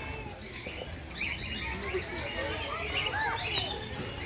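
Several birds chirping and calling at once in a busy mix of short chirps, with a few short arched whistles about three seconds in.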